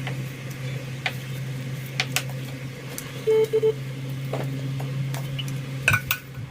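Steady electrical hum of a kitchen appliance with light clicks and knocks of containers being handled; three short beeps sound about a third of the way in, and the hum stops near the end.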